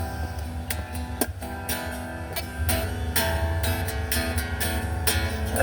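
Instrumental music led by a strummed acoustic guitar, with a steady low bass and regular percussive strokes.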